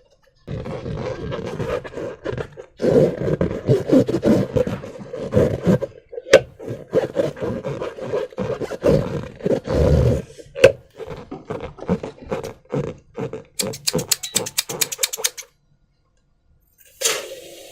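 Transparent rubber balloons filled with slime being handled, squeezed and rubbed, giving irregular scraping and squishing noise with a squeaky rubbery tone running through it. Near the end comes a quick even run of clicks, then a short pause and one more rub.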